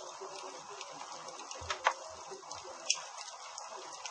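Wood campfire crackling: a steady hiss of burning with scattered sharp pops. The loudest pop comes a little under two seconds in, and another about a second later.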